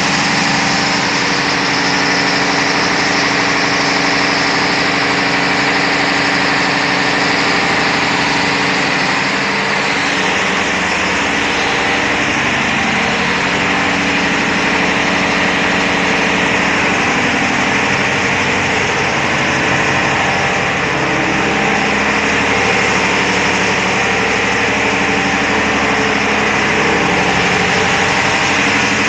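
Loud, steady din of a cargo ship's engine room machinery running, several steady hums under a dense mechanical hiss, the tone shifting a little about ten seconds in.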